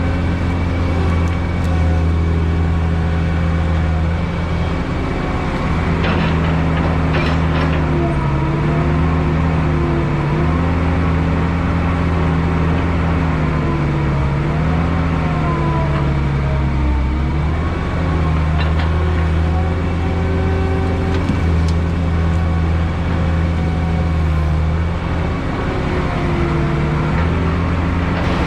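Heavy equipment's diesel engine running continuously, its pitch dipping and rising as it works. A few short knocks come about six to eight seconds in.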